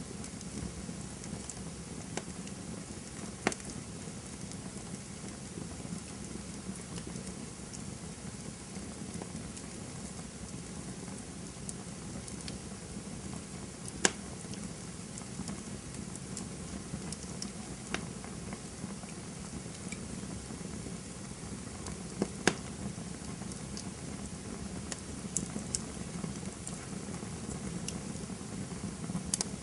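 Campfire burning with a steady hiss and scattered sharp crackles and pops, the loudest about 3.5, 14, 18 and 22 seconds in.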